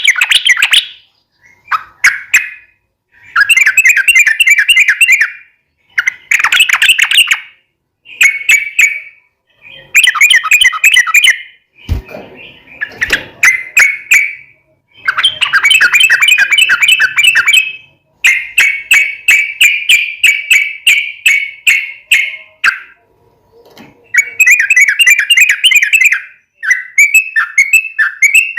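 Yellow-vented bulbul (trucukan) singing: repeated loud phrases of rapid bubbling, chattering notes, each one to three seconds long, with short pauses between. Two brief low knocks come about twelve and thirteen seconds in.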